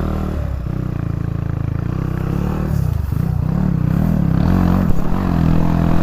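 Dirt bike engine running under load as the bike is ridden through a deep river crossing, its pitch rising and falling as it is revved, more so in the second half.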